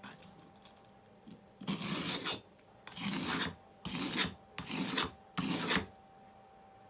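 Steel blade edge being sharpened by hand, rubbed dry across the coarse side of a whetstone: five scraping strokes, each about half a second long, starting about a second and a half in.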